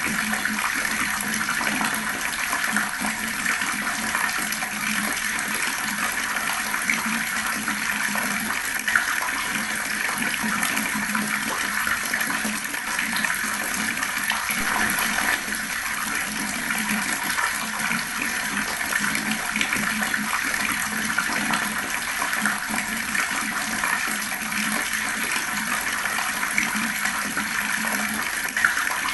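Fast-flowing water, a steady unbroken rush with no pauses or changes.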